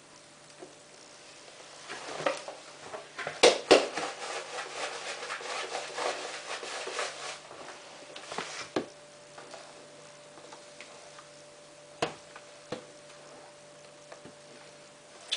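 Laundry detergent being handled and added to a washing machine: rustling and rubbing with sharp clicks and knocks, two loud ones close together about three and a half seconds in and a few single knocks later, over a low steady hum.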